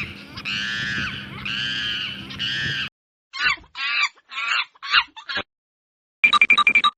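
Monkey calls: a string of long, arching, high-pitched calls, then shorter chattering calls and a quick run of short high notes near the end.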